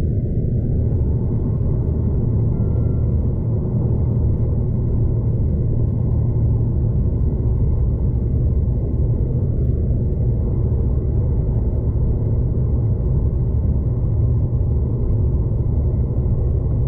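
Steady low rumble of a V/Line passenger train under way, heard from inside the carriage: the train's even running noise, with no breaks or distinct clicks.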